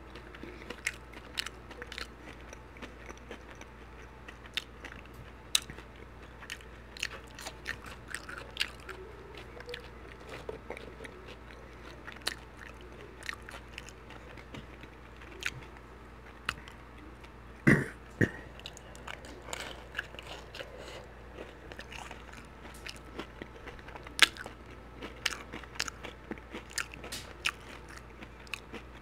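Close-up chewing and crunching of fried fish with a crunchy Flamin' Hot Cheetos crust and crinkle-cut fries: irregular crisp crunches and mouth clicks. A louder double thump comes about two-thirds of the way through.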